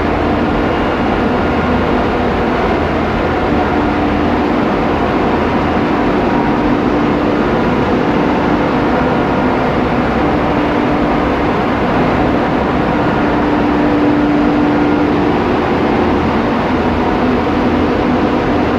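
Steady, loud din of a ship's engine-room machinery running, with a constant droning note and a low hum underneath.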